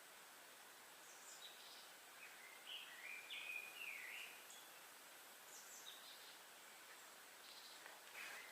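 Forest birdsong: small birds giving short chirps and whistled notes in scattered bursts, faint, over a steady background hiss.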